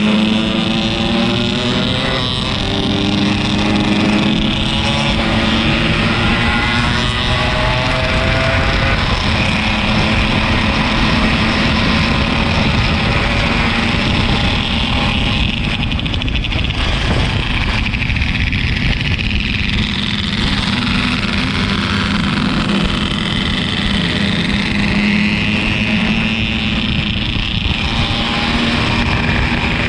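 Yamaha RX-King two-stroke single-cylinder motorcycle engine running under way, with heavy wind and road noise. The engine pitch drifts up and down with the throttle, mostly in the first several seconds.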